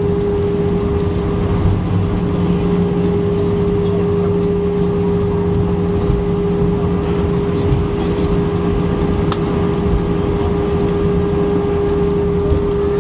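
Cabin noise inside an Airbus A319: a steady drone of the jet engines and airflow, with a constant hum held throughout over a low rumble.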